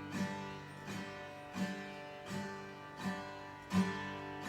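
Acoustic guitar strumming a G major chord with one down-strum on each beat, about one every 0.7 seconds, the chord ringing on between strums.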